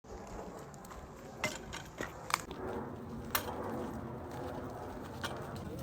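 About five sharp snaps or cracks, spaced irregularly, over a low rustling background.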